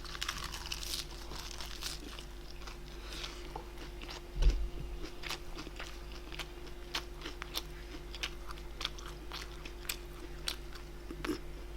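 A person chewing and biting food with many small crisp crunching clicks. A single low thump comes about four and a half seconds in.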